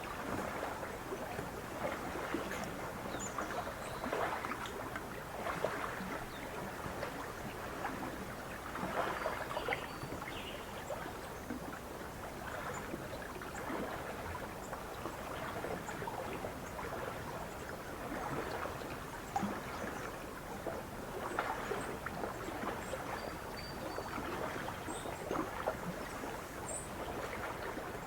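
Small lake waves lapping and splashing at the shore in an irregular, continuous wash with soft surges every second or two. A few faint, brief high bird chirps now and then.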